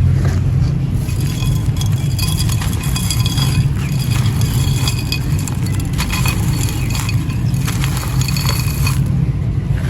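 Dry, gritty clay and sand crumbling and crunching, with dense crackles and small clinking clicks that thin out near the end, over a steady low rumble.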